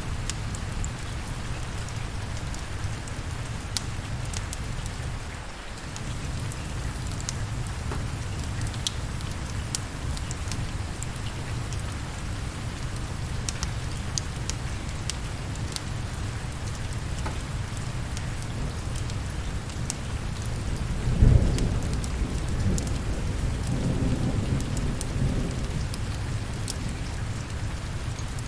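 Steady rain with scattered faint clicks, and a single rumble of thunder about three-quarters of the way through that rolls on for a few seconds.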